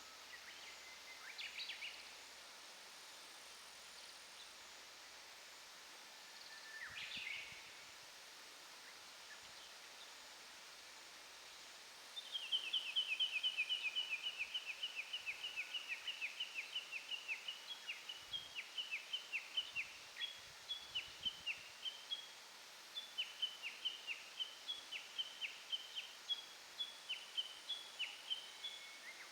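Outdoor ambience with a songbird: two short high calls, then about twelve seconds in a long run of rapidly repeated high, down-slurred notes starts, very fast at first and then settling to about three a second.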